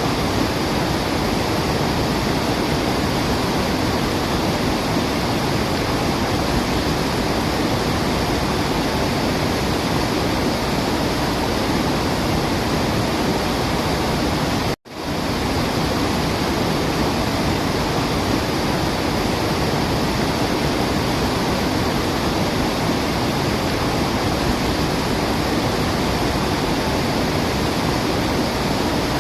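Waterfall: a steady, even rushing of falling water. About halfway through, it cuts out abruptly for an instant and swells straight back, like a splice in a looped track.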